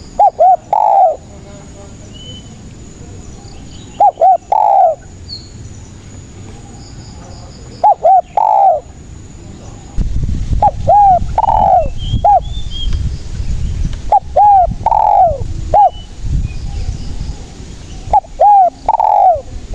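Spotted dove (tekukur) calling steadily: a cooing phrase of two short notes and a longer falling coo, repeated about every four seconds, six times. From about halfway through, a low rumbling noise runs underneath, and faint high chirps of other birds are heard in the background.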